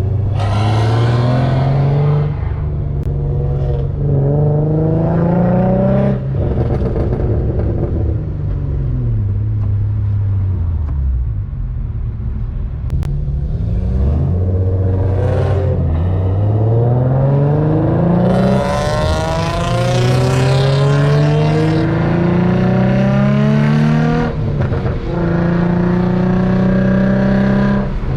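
Infiniti G35 coupe's VQ35 V6 pulling through the gears: the engine note climbs steadily, drops sharply at each shift, and winds down once while coasting, then pulls up again.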